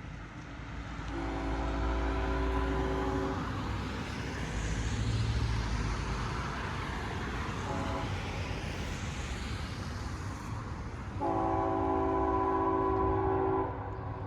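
CSX freight locomotive's multi-chime air horn sounding a long blast, a short toot, then another long blast, over the low rumble of the train's diesel engine.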